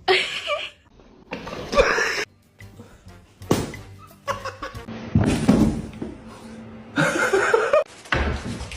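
Music with repeated short bursts of people laughing.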